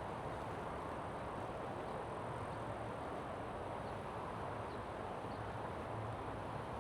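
Creek water flowing and rushing steadily, an even, unbroken rush.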